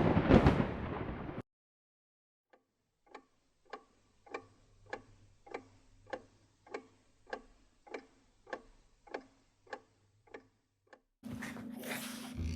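A loud, noisy burst lasting about a second and a half, then after a pause a run of evenly spaced ticks like a clock, about one every 0.6 s, growing louder and then fading away over some eight seconds. Music comes in near the end.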